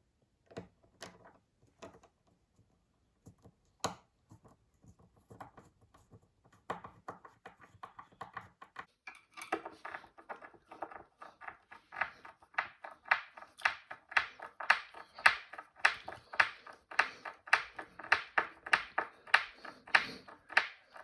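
A screw being driven in by hand with a screwdriver to fix a dishwasher mounting bracket: a few scattered clicks, then short rasping turns about twice a second that grow louder about ten seconds in.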